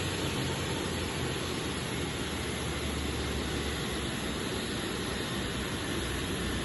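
Jet aircraft engines running steadily: a constant rushing noise with a low hum beneath it.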